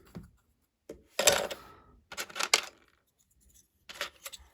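Small hard plastic Lego pieces clicking and clattering as they are handled, in a few short bursts with pauses between.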